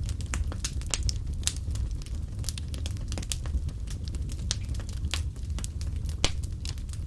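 Fireplace fire crackling: irregular sharp pops and snaps over a steady low rumble of the flames, with one louder pop about six seconds in.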